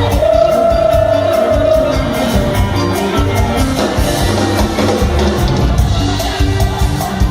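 Loud Thai live band music played through a PA sound system: a heavy, regular bass beat under a long held melody note at the start, with singing.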